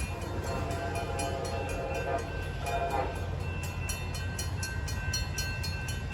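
Railroad crossing bell dinging steadily, about two to three strokes a second, over a low rumble, while an approaching Amtrak train's horn sounds faintly.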